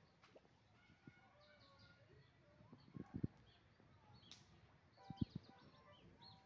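Faint bird calls and chirps, with a few low thumps about three seconds in and again a little after five seconds.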